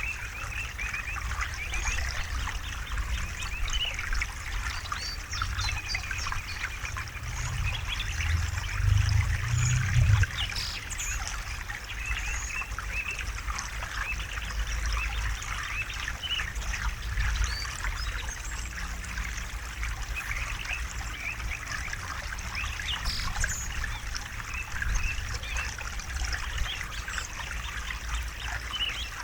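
River water trickling and babbling over stones, a continuous splashing with a deep low rumble underneath that swells briefly about eight to ten seconds in.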